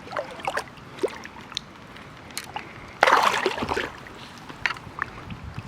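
Water sloshing and splashing at the lake's edge, with scattered small splashes and one louder splash about three seconds in.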